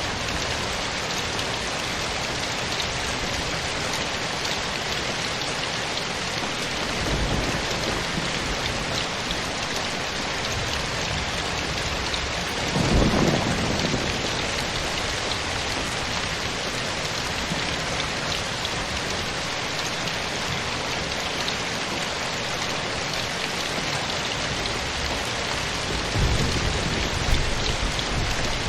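Steady rain falling, with low rumbles of thunder rolling in under it: a faint one about seven seconds in, the loudest about thirteen seconds in, and another near the end.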